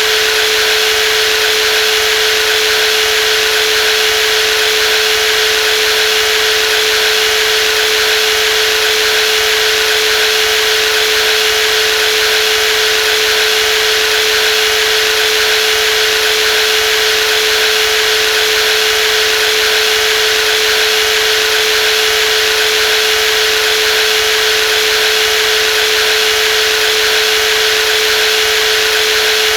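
Brushless jigsaw running at a constant speed: one steady humming tone over an even hissy rasp, unchanging.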